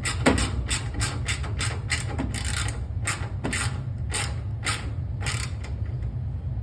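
A hand screwdriver driving the ground-wire screw back into a washing machine's control panel, a short sharp stroke with each turn, about two to three a second, stopping about five and a half seconds in. A steady low hum runs underneath.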